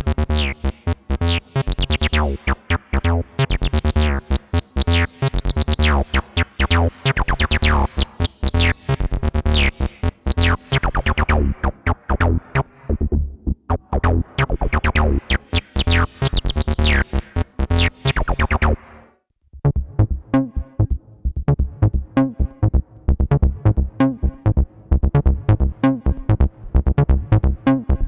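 Behringer TD-3-MO analog bass synthesizer playing a fast acid bassline sequence, its tone brightening and darkening as the filter opens and closes. About 19 seconds in it stops for a moment and a new, duller-toned pattern starts.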